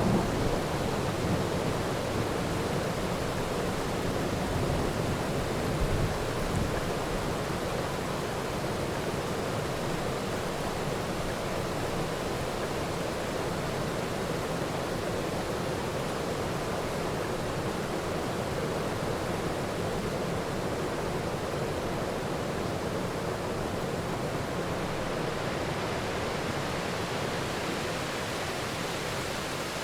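Steady heavy rain, an even hiss, with the low rumble of thunder dying away over the first several seconds.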